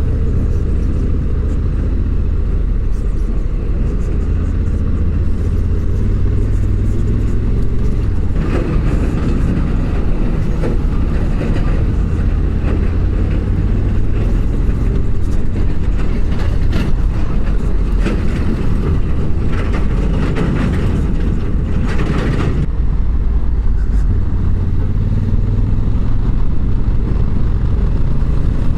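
Honda CRF1100 Africa Twin's parallel-twin engine running steadily on the move, with wind and road noise. Brief louder rushes of noise come about eight seconds in and again around twenty-two seconds in.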